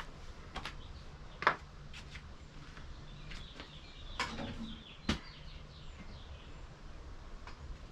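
Scattered sharp clicks and knocks of metal parts and tools being handled while a car seat is put back together, the loudest about a second and a half in and again about five seconds in, over a low steady hum.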